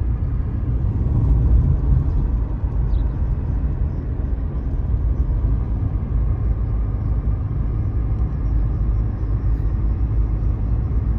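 Steady low rumble of a car travelling at road speed, engine and tyre noise heard from inside the cabin.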